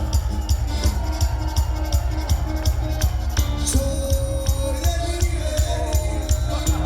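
Live band music: an instrumental passage over a steady, pulsing bass beat with regular crisp percussion hits and sustained melodic instrument notes.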